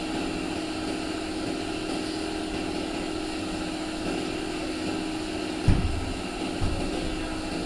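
Steady hum of a running machine with one constant low tone, broken near the end by two low thumps about a second apart.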